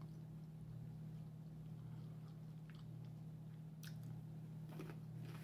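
Quiet mouth sounds of chewing, with sharp bites into a small pickle about four seconds in and again near the end.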